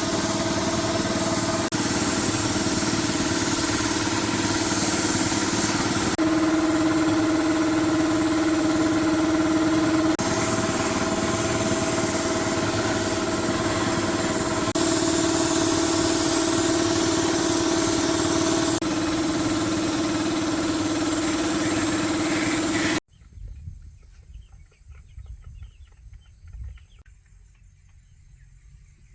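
A machine running steadily with a held hum and a hissy whir, in several short clips cut together; the pitch shifts slightly at each cut. It stops abruptly about 23 seconds in, leaving only faint low sounds.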